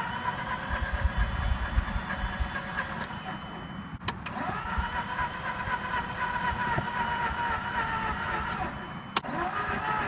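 Mazda RX-8's Renesis two-rotor engine being cranked by its starter motor on a jumper pack, a steady starter whine over uneven churning, without catching: the engine is flooded. A click and brief break about four seconds in, then cranking resumes, with another click near the end.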